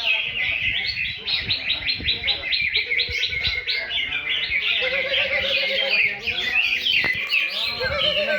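Green leafbirds (cucak ijo) singing in a songbird contest: several birds at once, a dense unbroken stream of rapid, high chirping notes.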